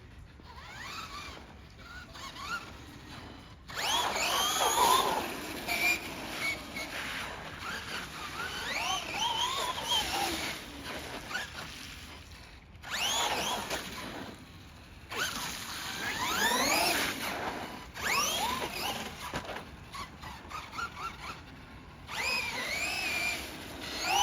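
Radio-controlled Losi Grave Digger monster truck's electric motor whining as it revs up and down, in repeated bursts of a few seconds with short quieter gaps between them.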